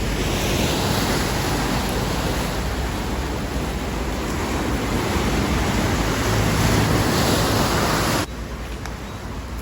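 Loud, steady rushing noise that drops off suddenly near the end.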